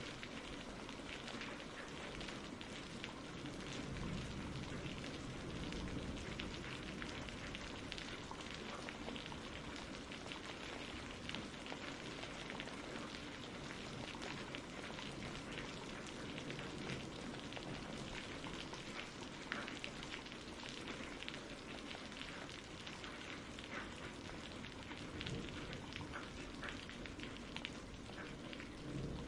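Steady rain falling, an even hiss flecked with the patter of many small drops.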